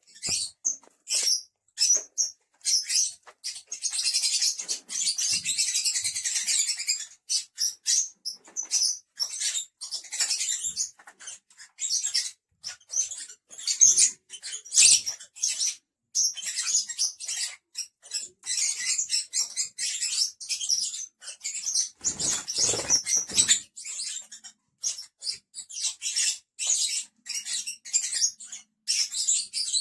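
Pet lovebirds chattering, a dense run of rapid, high-pitched chirps and squeaks.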